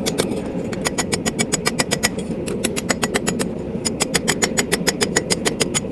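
Hammer tapping a hot steel feather on an anvil with rapid, light blows, about five or six a second, to straighten it without undoing its twist. A steady low hum runs underneath.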